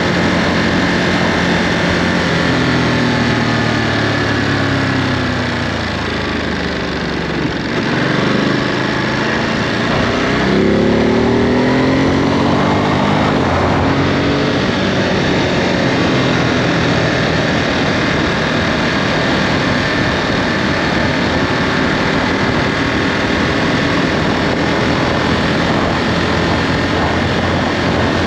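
Ducati Monster 937's Testastretta V-twin through its stock Euro 5 exhaust, heard while riding. The engine note falls for several seconds as the bike slows, then rises in a couple of sweeps through the gears as it speeds up, then holds steady at a cruise.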